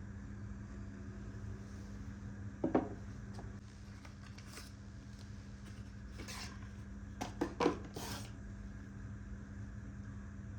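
Steady electrical hum of a household appliance, with a few light knocks and clinks and short brushing or swishing sounds over it.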